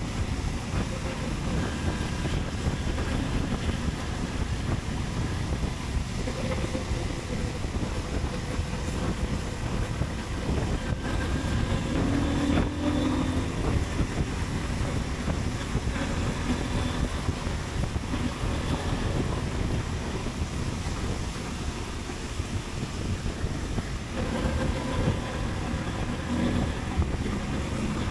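Motorcycle riding: wind rushing over the microphone with the bike's engine running underneath, steady throughout, with a faint engine tone showing briefly about halfway and again near the end.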